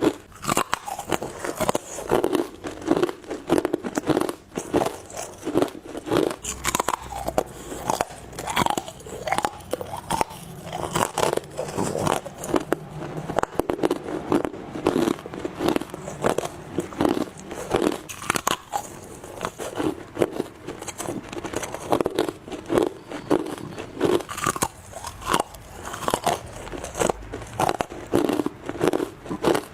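Close-miked biting into hard ice, many crisp crunches in quick, irregular succession without a break.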